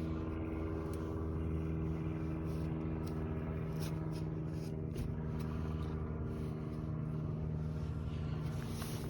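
2016 Honda Civic's turbocharged four-cylinder engine idling steadily.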